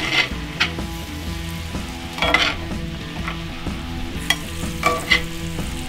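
Steak bites sizzling in garlic butter in a hot skillet, with several sharp clicks of metal tongs against the pan as the pieces are lifted out.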